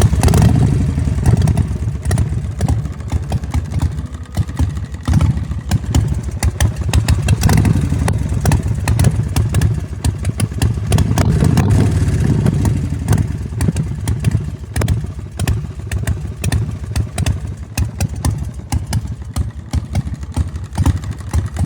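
Custom chopper's 100 cubic-inch RevTech V-twin engine running with a rapid, uneven firing beat, swelling louder several times as the throttle is opened.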